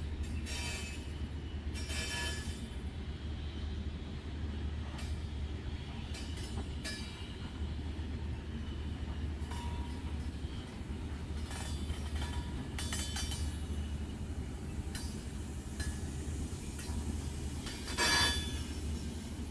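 Mauritanian ore freight train running: a steady low rumble, broken by short metallic screeches and clanks from wheels and wagons. The loudest of these comes near the end.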